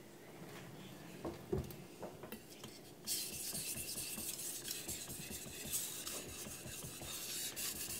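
Carbon steel knife blade stroked across a wet Naniwa Pro (Arata) 1000-grit whetstone: a few soft knocks, then about three seconds in a steady scratchy rasp of sharpening strokes starts.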